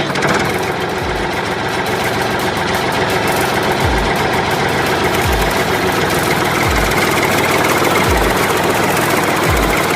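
A loud, steady engine-like running noise from a machine, with a deep bass-drum thump about every second and a half.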